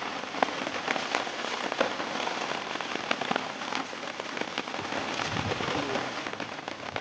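Heavy rain falling steadily, with frequent sharp ticks of drops striking a nearby surface.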